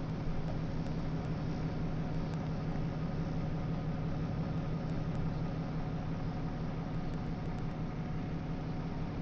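A steady low mechanical hum that holds one pitch throughout.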